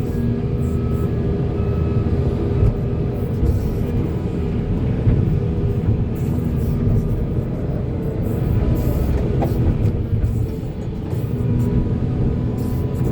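Volvo excavator's diesel engine running steadily under working load, a low rumble with occasional knocks.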